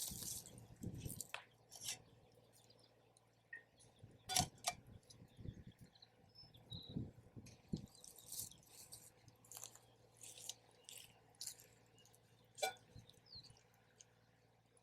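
Faint wood campfire crackling: irregular pops and short hissy crackles, with two sharper ringing clicks, one about four seconds in and one near the end.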